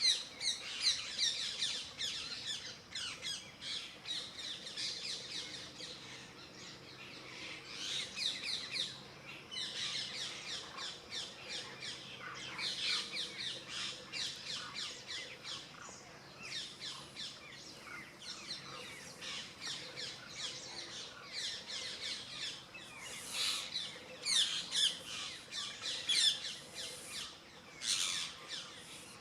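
Many birds chirping and calling at once in a busy, continuous chorus of quick high chirps, in denser clusters every few seconds, with occasional squawks.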